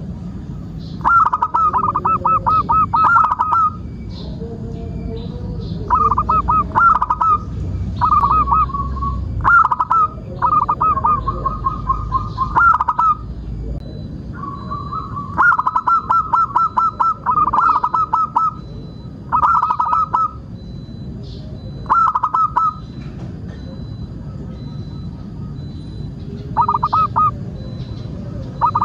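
Zebra dove (perkutut) cooing in about ten phrases of rapid, stuttering coo notes, each phrase lasting one to three seconds, with short pauses between them, over a steady low background rumble.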